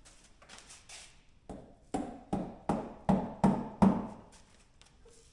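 A quick series of about seven sharp knocks, a little over two a second and growing louder, as a fastener of the UTV cargo net is knocked into place on the bed, after a few faint knocks at the start.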